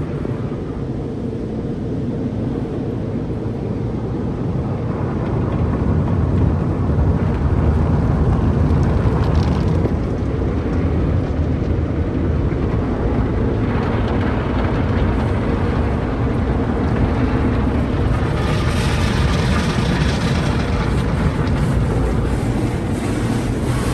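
MacNeil tunnel car wash at work on a car: a steady low rumble of brushes and machinery with water spraying. The hiss of spray grows louder about 14 seconds in and again more strongly about 19 seconds in.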